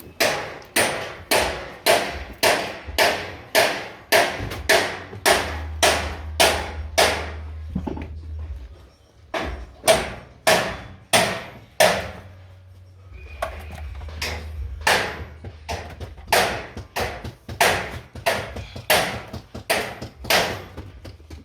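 Repeated hammer blows, about two a second, with a couple of short pauses; a low hum comes and goes underneath.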